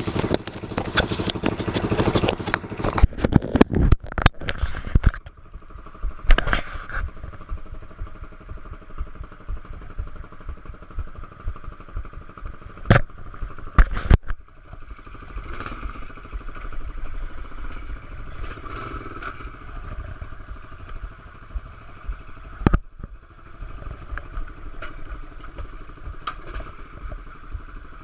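Pit bike engine running unevenly. It is loud and revving for the first few seconds, then settles to a lower, stuttering run broken by a few sharp cracks. The stutter is something the owner can't explain; he says the bike is not out of gas.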